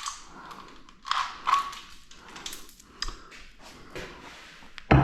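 Metal tools and engine parts clinking and scraping while a 2.4 GM EcoTec engine is being taken apart, with a single louder thud near the end.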